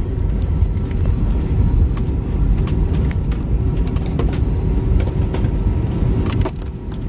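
Steady low rumble inside a moving vehicle, with scattered light clicks and rattles.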